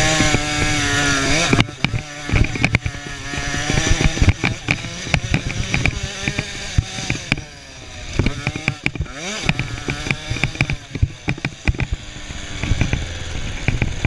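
KTM 50 cc two-stroke motocross bike engines revving hard, the pitch rising and falling over and over as the bikes accelerate and ease off.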